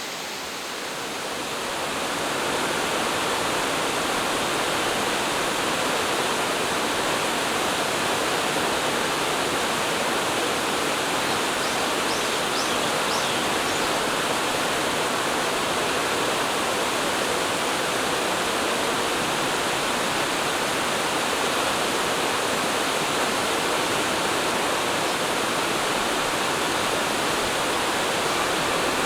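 Steady rush of falling water, swelling up over the first two seconds and then holding even.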